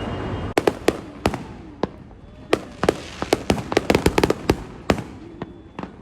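Fireworks going off: a rapid, irregular string of sharp bangs and pops, densest in the middle. A steady rushing noise cuts off suddenly about half a second in.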